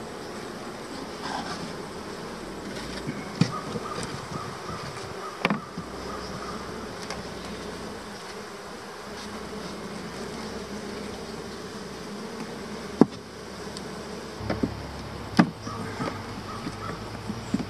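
A swarm of honeybees humming steadily around an open hive. A few sharp knocks cut through it, about four over the span.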